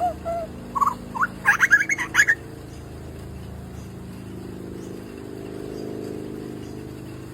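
A bird giving a quick run of short squeaky calls, each sliding in pitch, for the first couple of seconds. After that there is only a steady low hum.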